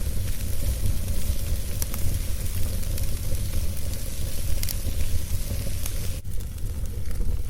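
Wood fire burning with a steady low roar and hiss, and a few sharp crackles and pops from the burning wood.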